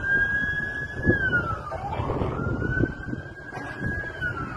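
Emergency vehicle siren wailing in slow cycles: the pitch rises, holds high for a second or two, then falls, about twice, over a background of rumbling noise and scattered knocks.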